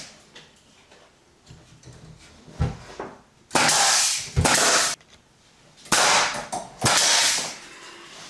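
Trim carpentry work: three sharp knocks roughly two seconds apart, among bursts of hissing noise each about a second long.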